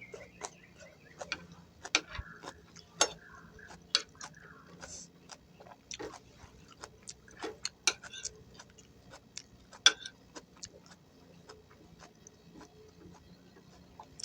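Close-miked mukbang eating: chewing vegetables in peanut sauce, with irregular sharp crunchy clicks a second or so apart.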